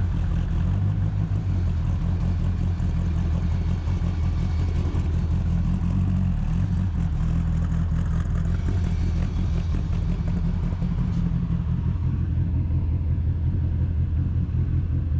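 Twin-turbo Dodge Viper's V10 engine running steadily, a constant low rumble.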